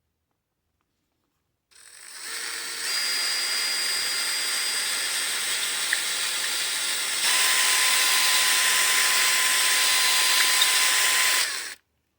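Electric drill running on low speed, a bit reaming out a worn, wallered-out pin hole in a wooden pedal handle to round it for a bolt. It starts about two seconds in, runs steadily, gets louder about seven seconds in and stops suddenly near the end.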